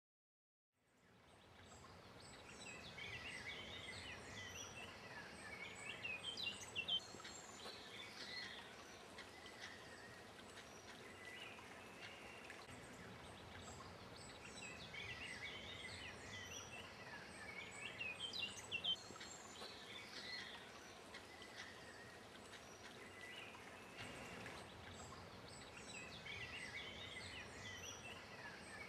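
Several birds singing and chirping over a steady outdoor hiss, fading in about a second in, with the same burst of song coming back about every eleven or twelve seconds.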